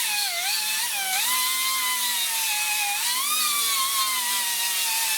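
High-speed rotary grinding tool running as it grinds a scrap piece of the plastic taillight lens. A steady high-pitched whine dips and recovers a few times as it bears on the plastic.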